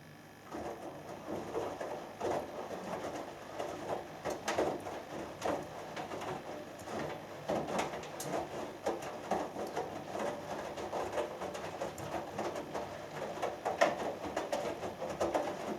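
Hoover Dynamic Next washing machine in its main wash: after a pause the drum starts turning about half a second in, tumbling wet laundry with irregular swishing and soft knocks.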